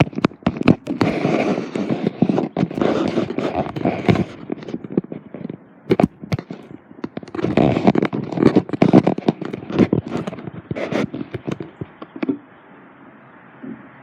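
Toy trains and wooden track pieces clattering and clicking as they are handled, in two long bursts of dense rattling with scattered clicks between; it dies down near the end.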